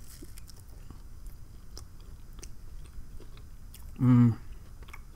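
Close-miked chewing of an Olive Garden breadstick: soft mouth sounds with small scattered clicks. About four seconds in comes a brief vocal sound from the eater.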